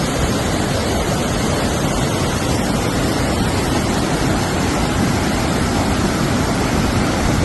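Floodwater rushing steadily, a loud, even noise with no breaks.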